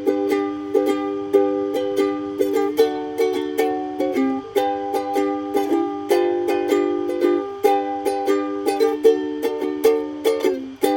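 Instrumental introduction to a song: chords strummed on a string instrument in a steady rhythm, a few strums a second, with no singing yet.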